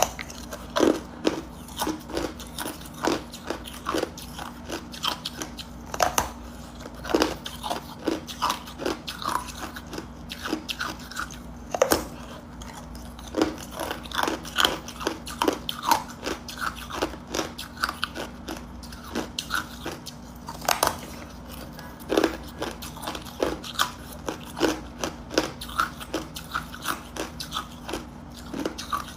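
A person crunching and chewing hard ice cubes: a steady run of irregular sharp crunches, several a second, with a few louder bites now and then.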